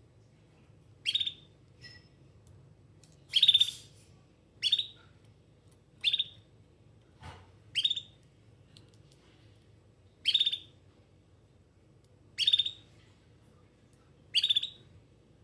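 Domestic canary giving eight short, high chirping calls, one every one to two and a half seconds.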